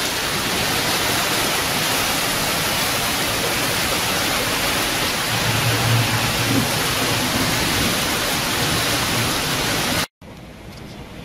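Heavy rain pouring down, a dense steady hiss, with a low rumble about six seconds in. The rain cuts off abruptly near the end, leaving a much quieter room sound.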